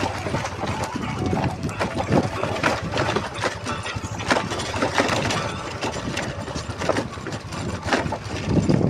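Motorcycle engine running under load, with many irregular knocks and rattles from the bike jolting over a rough, rutted dirt road.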